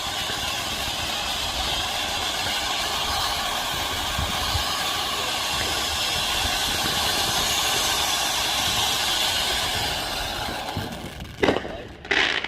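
A steady, loud hissing rush that dies away near the end, followed by two sharp firework cracks under a second apart.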